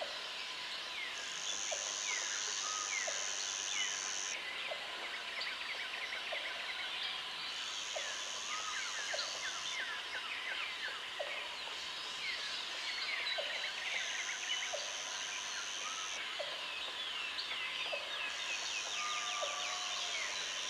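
Tropical jungle ambience: many birds calling with quick falling chirps, while an insect's high steady buzz comes and goes in spells of two to three seconds, four times. Short low calls repeat about once a second underneath.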